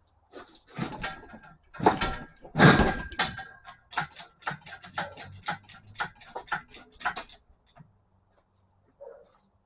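Metal clanking: several loud knocks with a brief metallic ring, then a run of evenly spaced clicks, about three a second, that stops a couple of seconds before the end.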